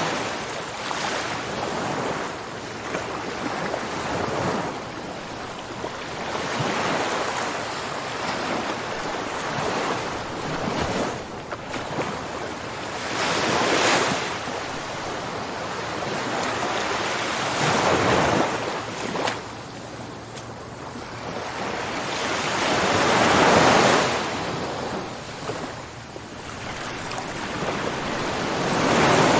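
Ocean waves washing onto a shore, a steady rushing surf that swells and fades every few seconds, with several louder surges as bigger waves break.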